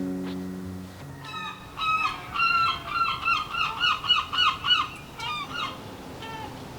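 Background music stops about a second in, then a bird gives a rapid run of short, repeated calls, about three a second for roughly four seconds, with a few fainter calls near the end.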